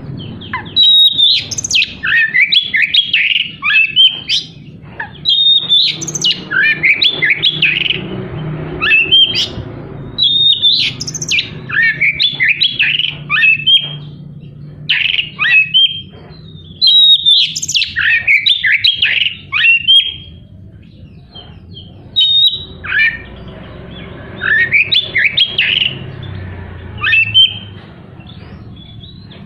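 Oriental magpie-robin (kacer) singing a loud, varied song full of harsh, rapid 'tembakan' notes and mimicked phrases. It comes in about five bursts a few seconds long, with short pauses between them.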